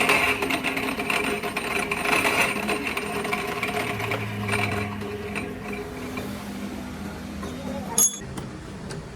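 Workshop machinery running steadily, with a brighter grinding or scraping noise in the first half that fades after about five seconds, leaving a lower hum. A single sharp click comes near the end.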